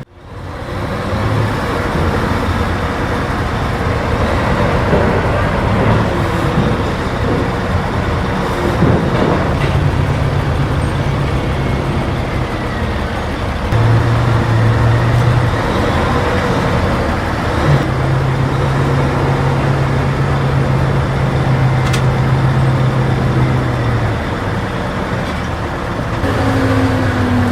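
Heavy diesel earthmoving machine running and working, its engine note stepping up and down as the load and throttle change, under a steady haze of machine noise.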